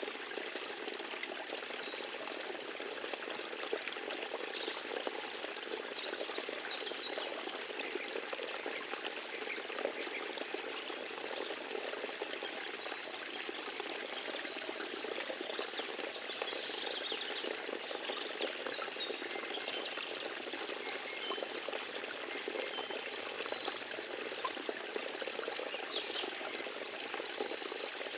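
Small forest stream trickling and splashing steadily over its bed.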